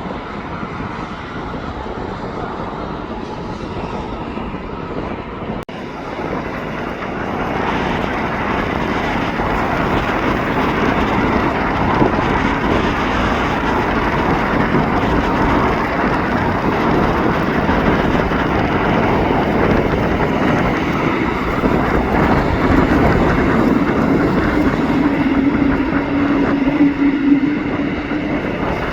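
Jet airliner's engines: a loud roar that builds about seven seconds in and holds, with a steady hum joining it about twenty-two seconds in.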